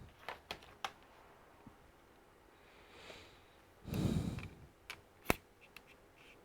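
Small clicks and taps of laptop parts and tools being handled during disassembly, with a rustling burst about four seconds in and one sharp click just after five seconds.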